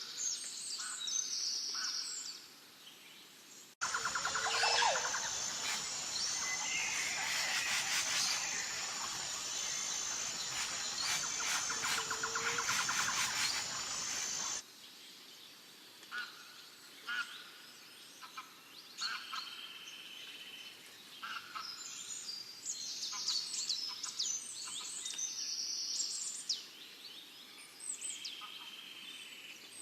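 Small birds chirping and singing in short repeated calls. About four seconds in, the sound cuts abruptly to a louder, busier stretch of dense birdsong over a steady hiss. About fifteen seconds in it cuts back to scattered chirps over a quieter background.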